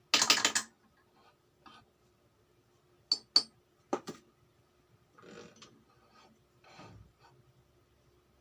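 Metal tools and parts being handled: a quick cluster of metallic clinks right at the start, a few single sharp taps about three to four seconds in, then two short scrapes.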